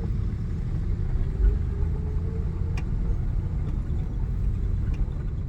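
Car engine running at low revs as the car moves off slowly from a stop, the clutch let out gently with a light touch of the accelerator. It is a steady low rumble whose pitch rises slightly over the first couple of seconds, with a single short click about halfway through.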